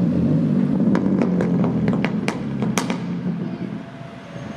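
Ferrari 250 GT's V12 engine running at low revs, with a quick string of sharp exhaust pops between about one and three seconds in. The engine sound then drops away near the end.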